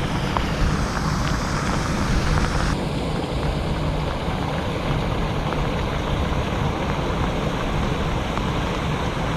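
Steady heavy rain with a low rumble underneath; the higher hiss drops back a little about three seconds in.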